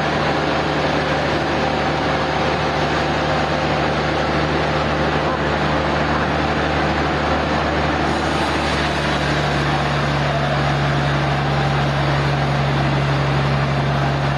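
Sawmill machinery running steadily: a dense mechanical noise over a strong low hum. About eight seconds in, a hiss rises in the highs and the hum grows stronger.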